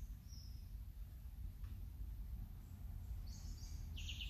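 Birds chirping: a couple of short high chirps near the start, then a run of louder chirps in the last second, over a low steady hum.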